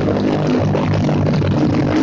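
Motorcycle engines running steadily, with a loud, even drone and a slight drop in pitch near the end.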